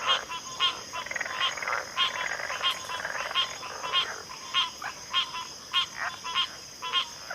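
A chorus of frogs calling, short rasping calls repeating steadily, a little under two a second, with other frogs calling underneath. A steady high-pitched insect drone runs beneath the calls.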